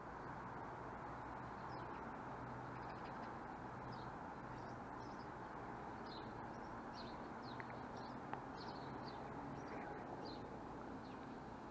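Small birds chirping on and off, short high chirps scattered through, over a faint steady outdoor background hum.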